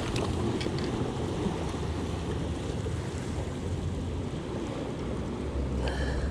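Sea waves washing over rocks with wind rumbling on the microphone, a steady churning wash, with a few light clicks in the first second.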